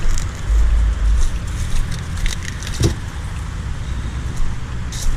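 Road traffic passing steadily on a highway, with a heavy low rumble in about the first second. A few short light knocks sound over it.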